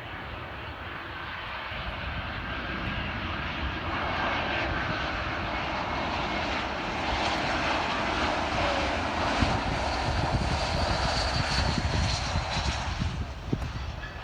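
Jet airliner passing, its engine roar building over several seconds and easing near the end, with a faint high whine over the roar.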